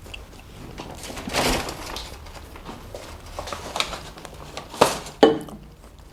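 Tabletop eating sounds: a rustling swell about a second in, like a paper burger wrapper being handled, then small clicks and two sharp knocks near the end, like things set down on a table.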